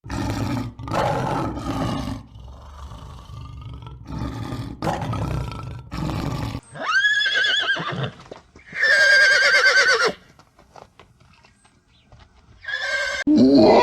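A horse neighing twice in a high, wavering whinny, after a run of low, rough bursts of breath or noise. Another animal's call begins near the end.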